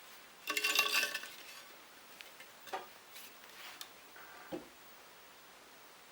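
Small metal parts clinking and rattling together as they are handled, a dense burst of ringing clinks near the start followed by a few light, separate clicks.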